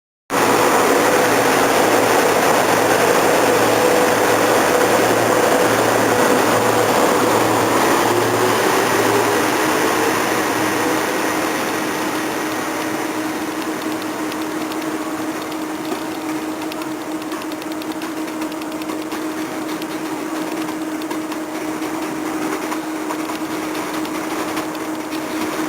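SEPTA Silverliner IV electric multiple-unit train running past, its rumble fading slowly as it moves away. A steady motor tone drops in pitch about ten seconds in and then holds, and a soft regular pulsing stops at about the same time.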